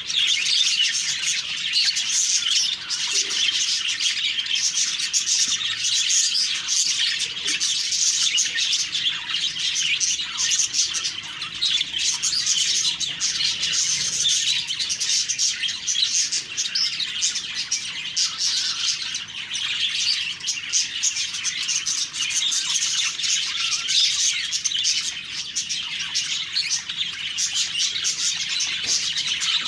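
Budgerigars chattering and warbling without a break, with many quick chirps and squawks overlapping.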